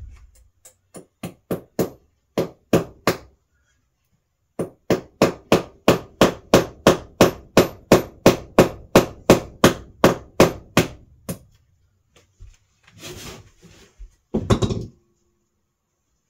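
A hammer striking repeatedly. First comes a short series of taps that grow louder, then a steady run of about four blows a second lasting some seven seconds. Near the end there are two brief scraping or rustling sounds.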